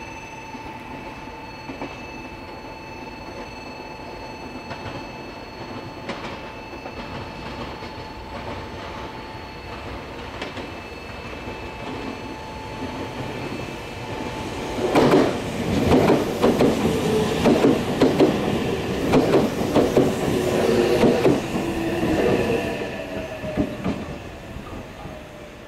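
A train passes. A steady hum with a few high tones runs for the first dozen seconds or so, then the wheels clatter loudly over the rail joints for about seven seconds before the sound fades away near the end.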